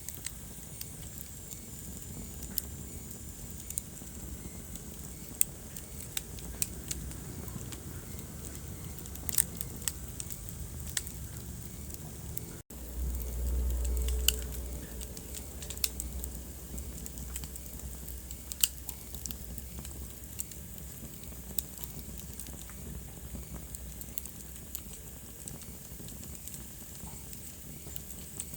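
Wood fire burning in a fireplace: irregular sharp crackles and pops over a steady low rumble. The sound drops out for an instant about halfway through, and then the low rumble swells for a couple of seconds.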